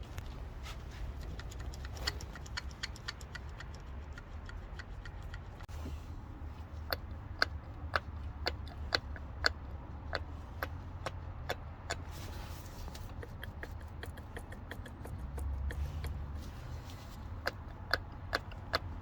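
Vauxhall Astra engine running with a steady low hum and sharp metallic ticks, about two a second through the middle and irregular elsewhere: timing chain noise.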